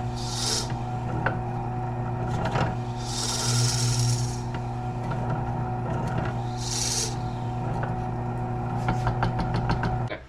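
Drill press running with a steady motor hum, its bit boring into a knife-handle block in three bouts of cutting noise: at the start, for about a second and a half a few seconds in, and briefly around seven seconds. The motor shuts off just before the end.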